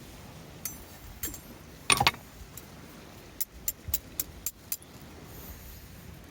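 Small metal objects being handled: sharp metallic clicks and clinks, with a louder clatter about two seconds in and a quick run of about six clicks a little later, over a steady background hiss.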